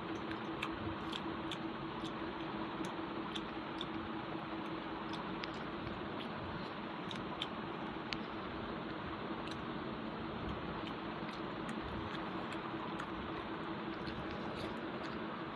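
A person chewing and eating rice with curry by hand, close to a clip-on microphone, with many small wet mouth clicks over a steady hiss and low hum.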